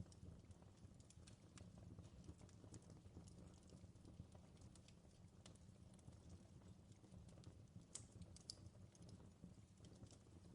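Fireplace wood fire crackling faintly: irregular sharp pops and snaps over a low steady rumble, with a couple of louder snaps about eight seconds in.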